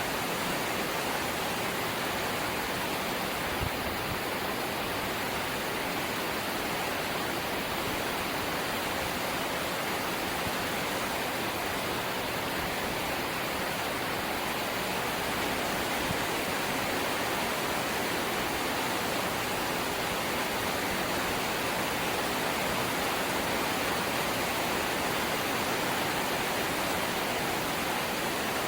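Rain falling steadily on a corrugated zinc roof: an even, unbroken hiss.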